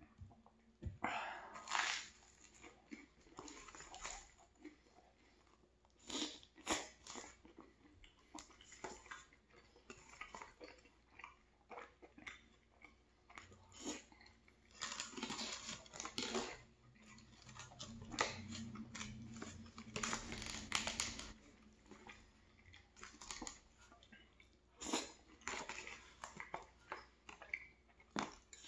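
Close-miked chewing of buttered toast and pulled-pork stew, with crunchy bites and mouth sounds coming in irregular bursts.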